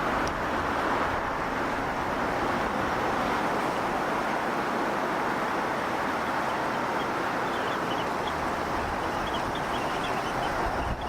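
Steady rushing outdoor noise with no distinct events, and from about the middle on a string of faint, short high chirps.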